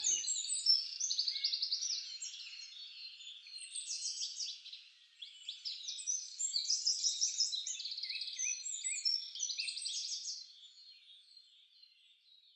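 Songbirds singing, several overlapping chirps and trills, fading out over the last two seconds.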